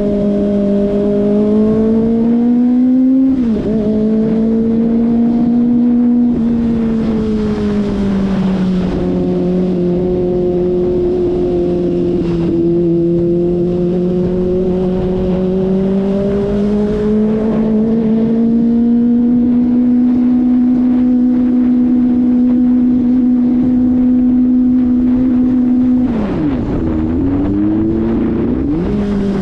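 Kawasaki Ninja ZX-25RR's 249 cc inline-four engine running under way at steady mid revs. The pitch climbs and then steps as it shifts gear about three seconds in, and the revs drop and pick up again twice near the end.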